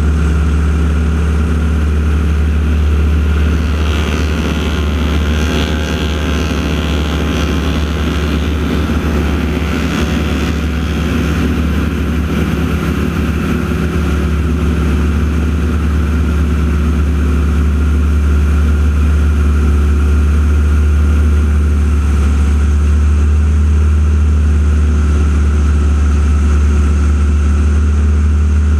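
Steady drone of propeller aircraft engines, the team's T-6 Texans with their radial engines, during the aerobatic routine. A rougher, brighter surge comes about 4 to 11 seconds in.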